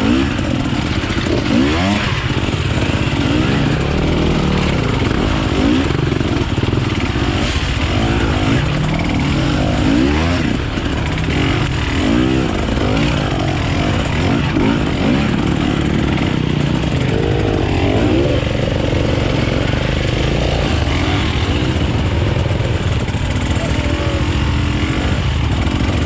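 Off-road enduro motorcycle engines revving, their pitch rising and falling over and over as the throttle is worked, with more than one bike audible at once.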